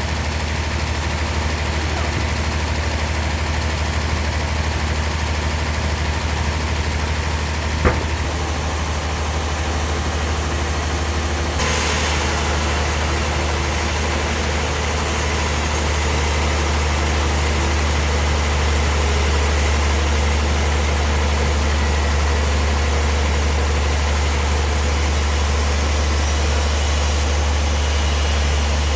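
Heavy engine running steadily with a strong low hum. There is a single sharp knock about eight seconds in, and a brighter hiss joins about twelve seconds in and carries on.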